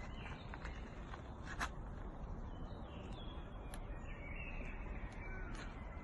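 Birds calling and chirping in short scattered notes over a steady low outdoor rumble.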